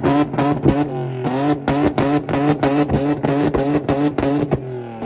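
Car engine held at high revs, stuttering sharply about five times a second, with a brief dip just before the end.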